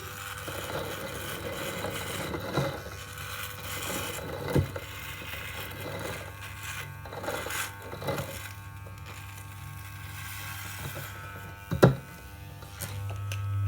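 A few scattered knocks and clicks over a low steady hum, with a sharp double knock near the end.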